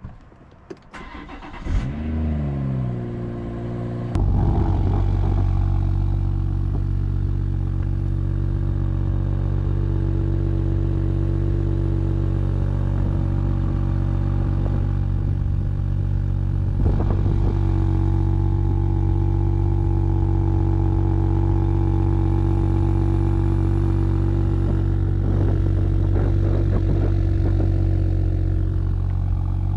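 BMW M240i's turbocharged straight-six starting: a brief crank, a rev flare that rises and falls, then a steady idle.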